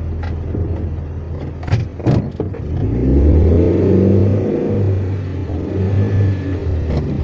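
Car engine running, heard from inside the cabin, getting louder about three seconds in as it picks up revs. A few sharp clicks or knocks come a little under two seconds in and again near the end.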